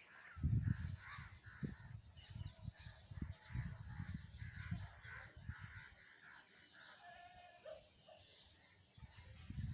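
Crows cawing over and over, calls coming about every half second and thinning out after about six seconds, with low rumbling noise on the microphone underneath.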